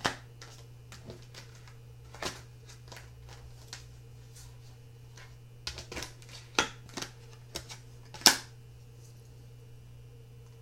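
Tarot cards being handled on a table: irregular light clicks and taps of cards being picked up and laid down, with the sharpest tap about eight seconds in, over a steady low hum.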